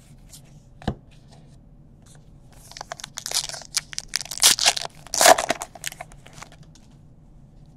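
A trading-card pack wrapper being torn open and crinkled in a series of crackly rips over a few seconds, loudest in two tears past the middle, after a single knock on the table about a second in.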